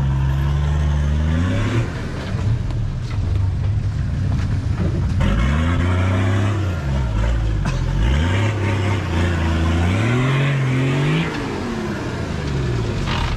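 Off-road 4x4 engine revving up and down repeatedly under load while climbing a steep rutted dirt track.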